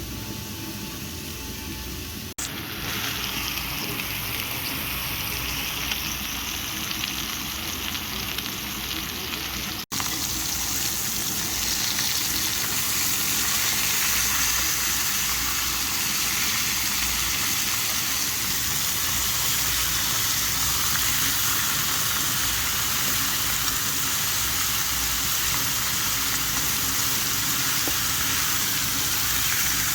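Food sizzling as it fries in a hot pan: a steady hiss, broken by two sudden cuts in the first ten seconds and a little louder after the second.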